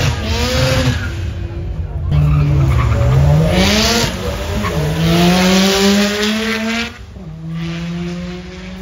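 Race car engine at a drag strip revving and accelerating hard, its pitch climbing, dropping sharply at a gear change about seven seconds in, then climbing again. A burst of tyre hiss or squeal about four seconds in.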